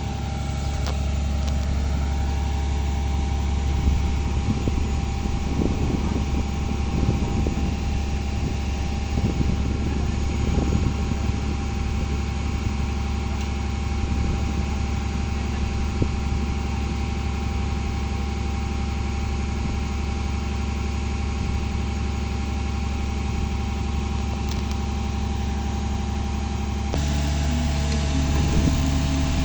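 An engine running steadily at idle, a low, even hum. Near the end the hum changes abruptly to a slightly different pitch.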